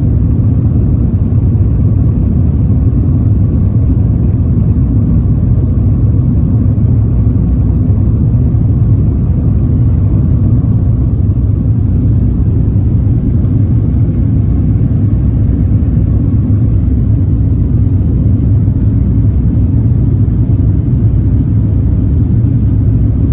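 Steady low cabin rumble of an Airbus A350-1000 airborne or on its takeoff run: the Rolls-Royce Trent XWB engines and airflow heard from inside the passenger cabin, holding even throughout with no change in pitch.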